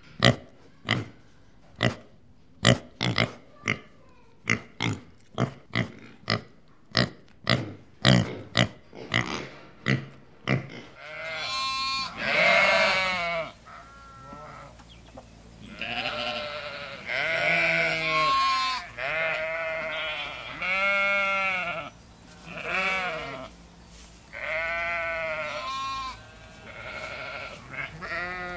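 A run of short, sharp animal sounds, about two a second, for the first ten seconds. From about eleven seconds in, sheep bleat repeatedly: around ten wavering, drawn-out bleats.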